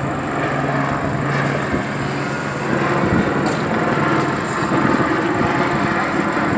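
Motor vehicle noise: a steady engine hum over a wash of traffic, the hum stopping about three and a half seconds in.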